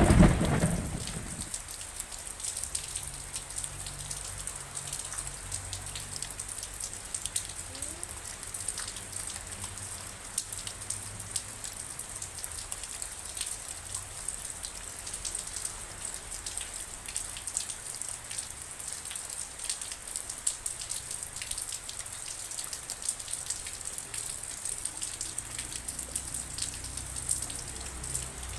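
Steady rain falling, with many distinct drops ticking on a surface. The tail of a loud thunderclap dies away in the first second or so.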